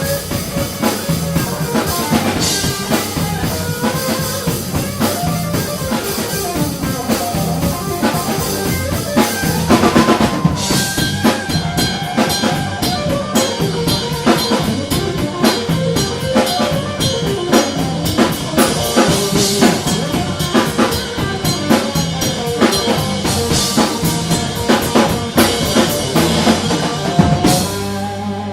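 Live rock band playing an instrumental passage, the drum kit most prominent with a steady kick and snare beat and cymbals over bass and electric guitar.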